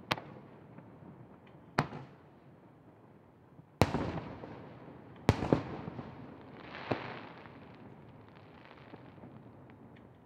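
Aerial firework shells bursting: five sharp bangs in the first six seconds, each trailing off, then a softer crackling burst about seven seconds in, after which it goes quieter.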